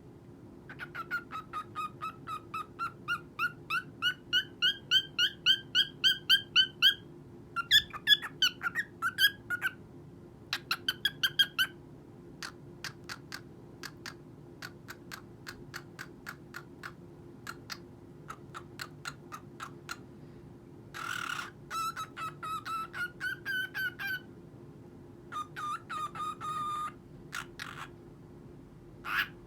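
Cockatiel chirping in quick repeated runs of short, bright notes that grow louder over the first several seconds. Fainter clicking notes follow mid-way, then more chirp runs and a last call near the end.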